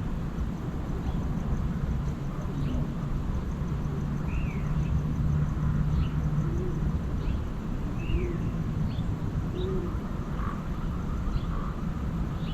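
Wild birds chirping with short, scattered calls, some falling in pitch, and a few low arched calls repeated every second or two. A steady low hum like a distant engine runs underneath.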